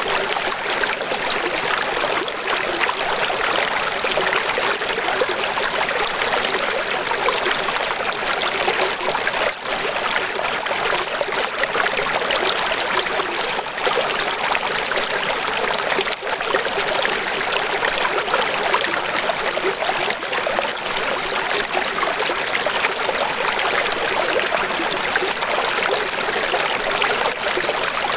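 Steady flowing water, an even unbroken rush with no separate splashes or drops.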